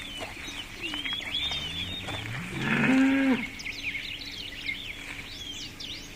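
A cow mooing once, a single call of about two seconds that rises in pitch, with birds chirping around it.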